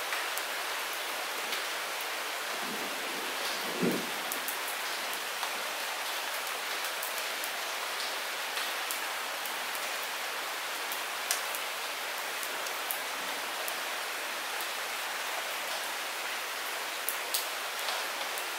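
Light rain falling steadily, with scattered sharp drip ticks. A brief low thump comes about four seconds in.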